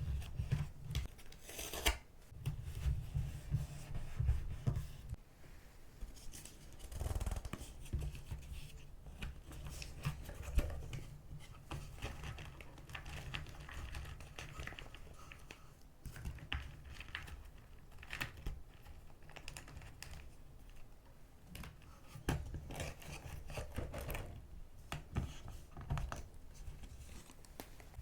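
Paper-crafting sounds close to the microphone: scissors snipping paper and paper pieces rustling and scraping, with soft knocks of handling on the desk now and then.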